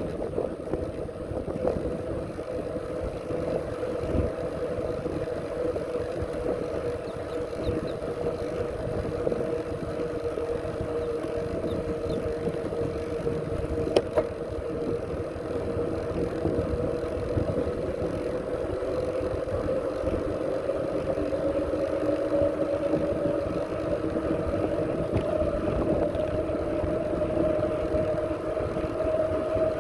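Bicycle in motion on a path: a steady hum over a rumbling rush of rolling and wind noise, the hum's pitch rising slowly toward the end, with one sharp click about halfway through.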